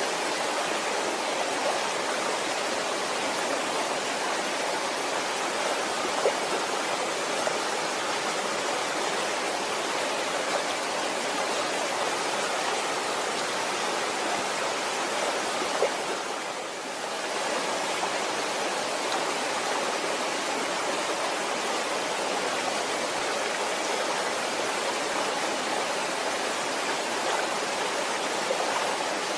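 Waterfall rushing steadily, a dense even roar of falling water with a few small splashes; the sound dips briefly a little past halfway.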